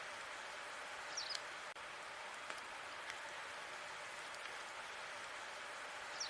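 Log fire in a fireplace burning with a steady hiss and scattered small crackles, plus a brief high squeak about a second in.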